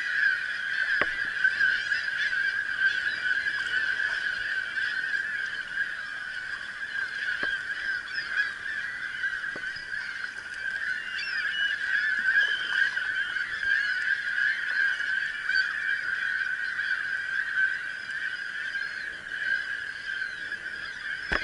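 A large colony of seagulls and terns calling all at once: a dense, continuous chorus of overlapping cries that never lets up, the birds stirred up by intruders approaching their island.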